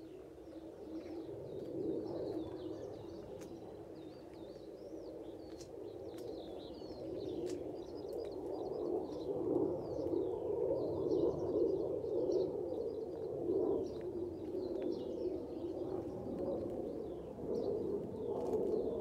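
Small birds chirping and twittering, over a steady low rushing noise that grows louder from about the middle on.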